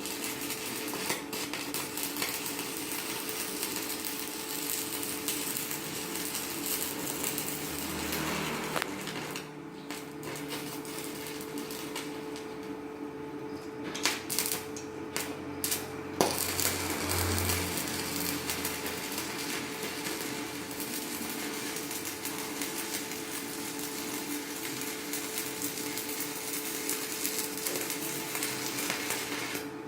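Stick (shielded metal arc) welding with a 4.0 mm electrode on a Chinshui 160ARC inverter welder: the arc's steady crackle and hiss, thinning out briefly a couple of times partway through.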